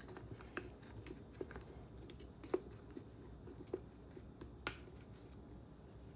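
Faint, scattered small clicks and taps of hands working zip ties and plastic parts on an RC car chassis, about five sharper clicks spread a second or so apart.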